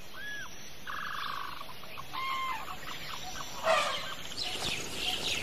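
Birds calling in a forest at dawn: a few short whistled calls and a brief trill, then busier chirping near the end.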